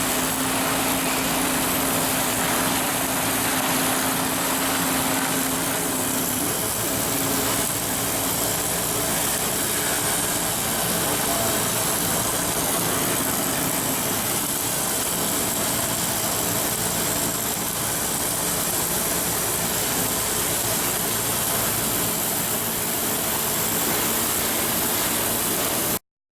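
Steady mechanical din of shipyard machinery: an engine-like drone over a broad hiss, with a hum that stops about six seconds in.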